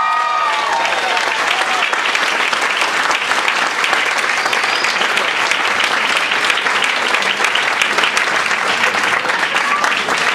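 Banquet audience applauding steadily, with a cheer in the first couple of seconds.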